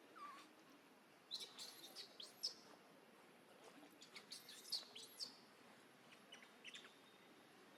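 Small birds chirping in quick, high twittering phrases: two bursts, about a second in and around four seconds in, then a few fainter chirps near the end.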